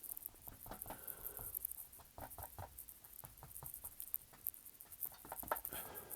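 Paintbrush dabbing and stamping acrylic paint onto a canvas: a string of faint, irregular soft taps.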